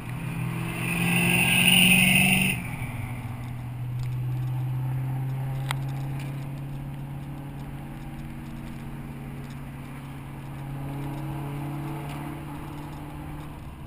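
Fox-body Mustang V8 accelerating hard for about two and a half seconds, its pitch climbing with a rasp on top, then suddenly backing off to a steady cruising drone that swells slightly twice.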